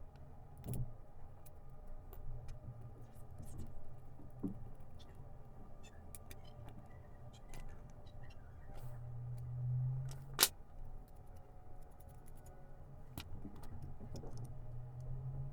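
Scattered small clicks and taps of tools and metal parts being handled during a vacuum cleaner motor repair, with one sharp, louder click about ten seconds in, over a low steady hum.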